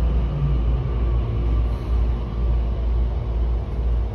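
Keikyu electric commuter train running, heard from the cab: a heavy, steady rumble of wheels on the rails. A fainter motor whine steps down in pitch during the first second or so.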